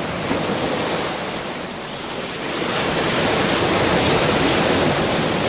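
Ocean surf: a continuous wash of waves, easing off a little about two seconds in, then swelling again as the next wave comes in.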